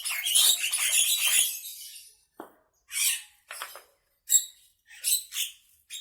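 Javan myna (jalak kerbau) calling: about two seconds of dense, harsh chatter, then a string of short separate calls.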